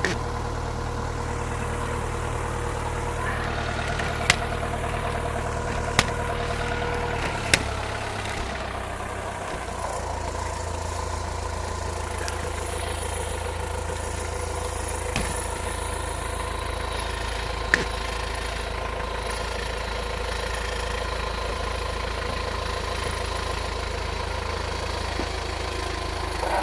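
Forklift engine running steadily at low speed, its note dropping slightly about seven and a half seconds in, with a few sharp clicks or knocks scattered through.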